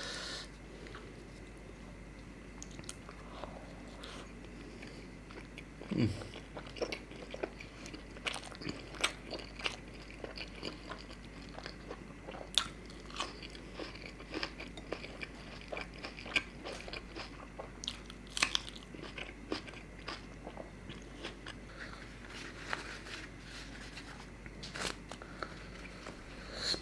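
Close-miked chewing and biting of flatbread dipped in chicken curry, with irregular wet mouth clicks and crunches, sparse at first and much busier after about six seconds.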